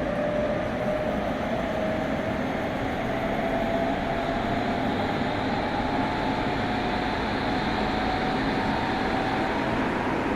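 Running sound inside a Meitetsu 100 series electric train with a Mitsubishi GTO-thyristor VVVF inverter. The traction motor and inverter whine rises slowly in pitch as the train gathers speed, over steady wheel and rail noise.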